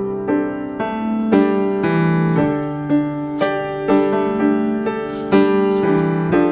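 Piano music playing a slow, even melody with chords, a new note struck about every half second.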